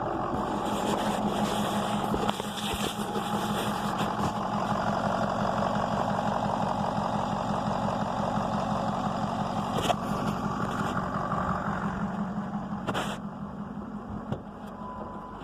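Ford 6.0 Power Stroke V8 turbo-diesel idling steadily: a freshly installed used engine, warmed up and running smooth. A couple of sharp clicks come about ten and thirteen seconds in, and the sound grows a little fainter near the end.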